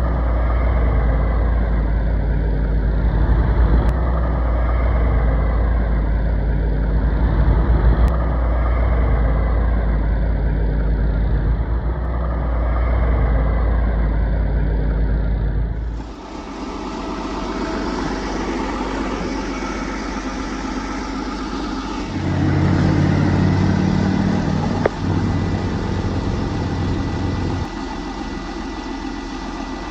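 Steady engine-like running rumble with a slow swell every couple of seconds. About halfway through it changes abruptly to a lighter idling sound, with a deeper hum joining for a few seconds near the end.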